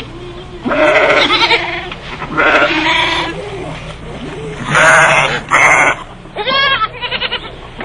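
Livestock bleating: about six loud calls in quick succession, the last few wavering in pitch.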